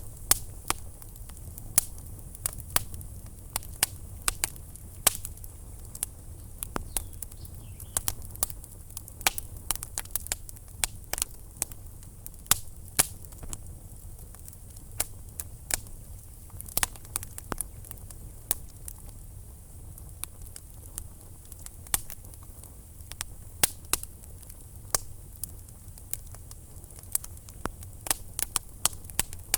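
Wood fire crackling in a fireplace: irregular sharp pops and snaps, several a second at times, over a low steady rumble.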